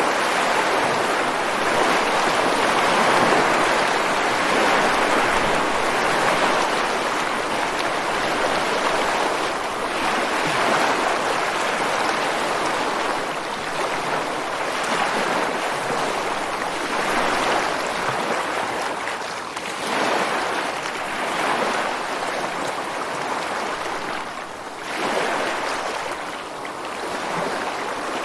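Ocean surf breaking and washing ashore on a beach: a continuous rush of water that swells and eases every few seconds, with two brief lulls in the second half.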